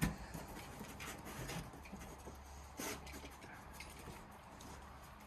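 Quiet indoor room tone with a steady low hum, a few faint soft ticks and one brief soft rustle about three seconds in.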